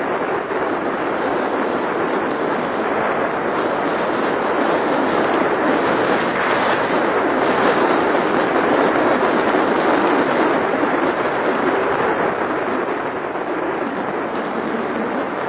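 Steady noise of a vehicle on the move, wind and road rush, swelling a little in the middle and easing near the end.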